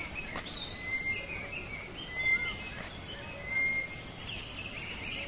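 Small birds chirping and whistling, with several short, high, steady whistled notes and quicker chirps, over a steady outdoor background hiss.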